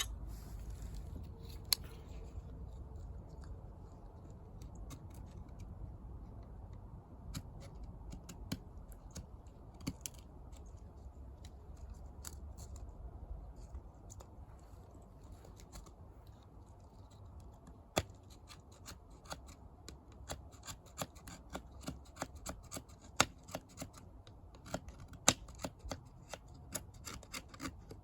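Wood fire crackling in a bucket fire pit: scattered sharp pops and snaps over a low rumble, growing much more frequent in the second half as the fire takes hold.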